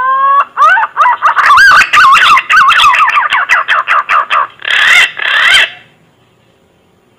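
Green pigeon (punai) call from a hunters' lure recording. A rising whistle ends just after the start. A fast run of warbling, wavering whistles follows, then two harsher, buzzier notes about five seconds in, and the call stops just before six seconds.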